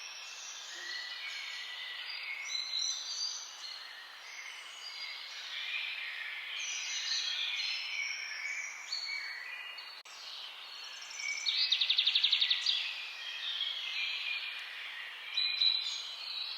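Several songbirds singing at once, a dense chorus of overlapping chirps and whistled phrases. About eleven seconds in, one bird gives a loud, fast trill lasting a little over a second.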